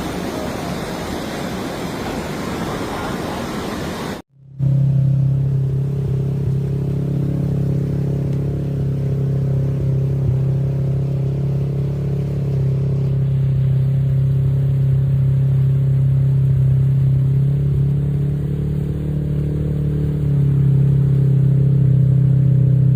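A loud, even rush of flowing floodwater for about four seconds, then after a brief cut a steady, low engine hum that holds without revving.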